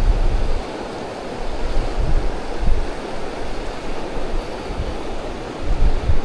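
Wind buffeting the microphone in irregular low rumbles, loudest at the start and again near the end, over a steady rushing noise.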